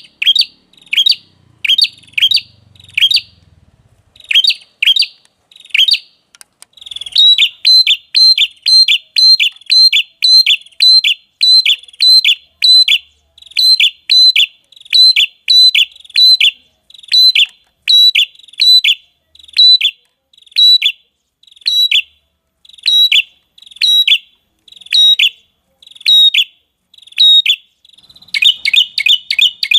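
Red-headed prenjak (prenjak kepala merah) calls used as a bird-trapping lure: a loud, repeated string of sharp, high chirps that sweep downward. The chirps come in short bursts with pauses at first. From about seven seconds in, they run as a fast, steady series of doubled notes.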